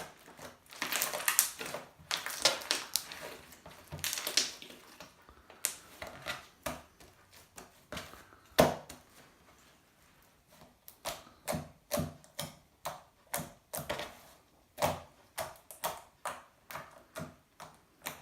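Homemade slime being worked by hand, its air bubbles popping with sharp clicks and crackles. Dense bursts of crackling in the first five seconds, a short lull, then a run of single sharp pops about two a second.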